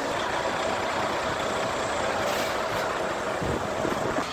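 Heavy trucks' diesel engines running in a steady din, with a faint steady tone over it.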